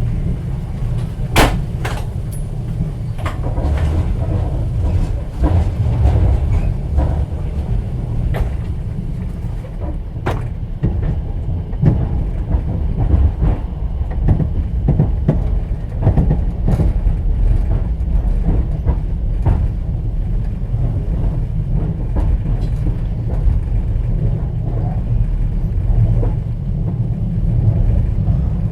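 Inside a moving passenger train's sleeper carriage: a steady low rumble of the running train, with sharp clicks and knocks now and then.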